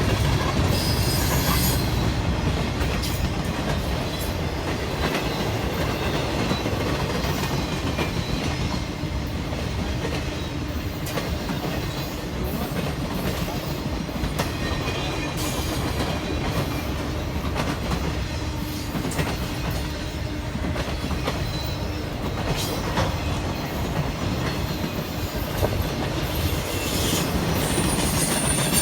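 A Norfolk Southern train's cars rolling past, wheels clicking over the rail joints over a steady rumble, with brief high wheel squeals about a second in and again near the end.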